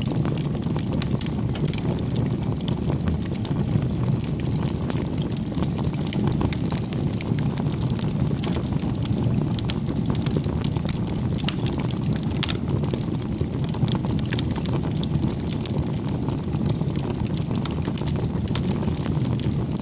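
Wood fire crackling: a steady low rush of burning with frequent small, irregular pops and crackles.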